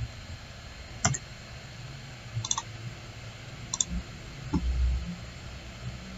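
Computer mouse clicking: four sharp clicks about a second apart, one of them a double-click, with a dull low thud near the end.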